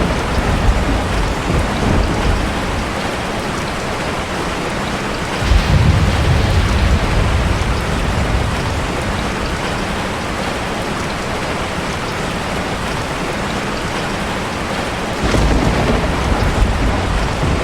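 Heavy rain pouring steadily, with low rolls of thunder: one breaking suddenly about five seconds in and rumbling for a few seconds, another near the end.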